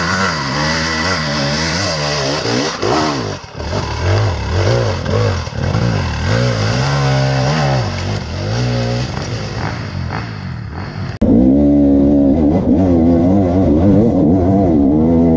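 Off-road dirt bike engines revving, the pitch rising and falling over and over. About eleven seconds in, the sound cuts abruptly to a louder engine revving.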